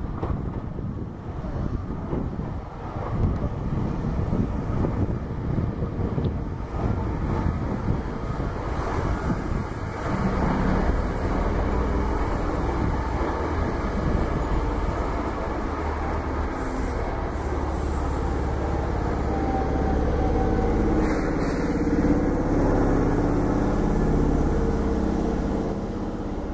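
Hankyu 7000-series electric train running slowly past into the station: a steady rumble of wheels on rail with repeated clatter, and from about ten seconds in a low humming tone from the running gear.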